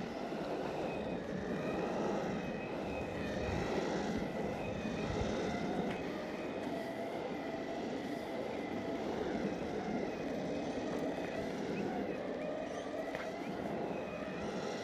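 Exway Flex Pro V3 electric skateboard riding on parking-lot asphalt: a steady rolling rumble from the wheels with a faint, slightly wavering whine from the motors.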